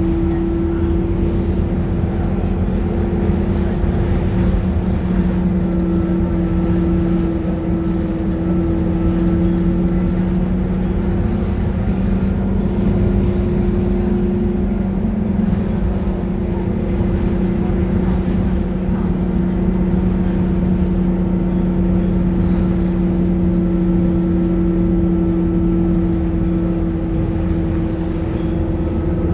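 Scania K230UB city bus diesel engine running at a steady, nearly unchanging pitch, a constant low hum over a rumble.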